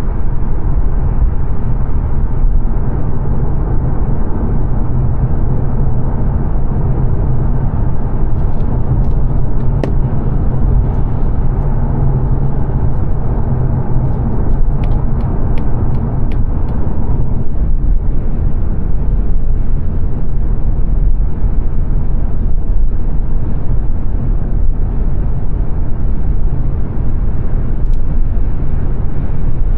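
Steady low road and tyre noise with engine drone, heard inside the cabin of a 2022 Mazda 3 saloon cruising on a dual carriageway. A few faint clicks come through around the middle.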